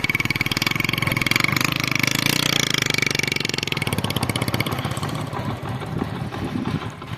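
Motorcycle engine running with an even, rapid pulsing, growing quieter in the second half as the bike eases off.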